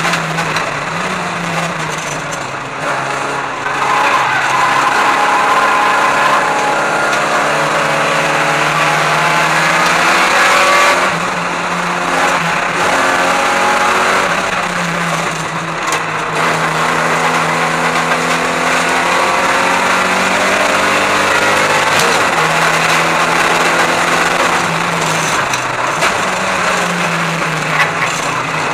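Race car engine heard from inside the cabin, its revs climbing under acceleration and falling away several times as it is driven hard around a circuit.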